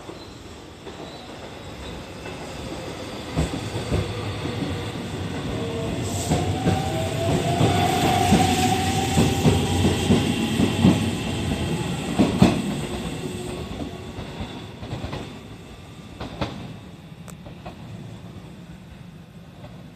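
Aichi Loop Railway 2000 series electric train pulling out and passing close by, its motor whine rising gently in pitch as it gathers speed and its wheels clacking over the rail joints. The sound builds to a peak about halfway through, then fades as the train moves off.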